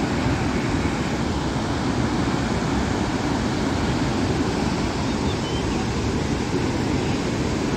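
Steady rushing of floodwater pouring through the open spillway gates of the Srisailam dam.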